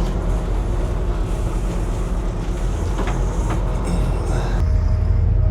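Boat engine running with a steady low rumble, with a couple of short knocks about three seconds in. Near the end the sound changes to a deeper, steadier hum.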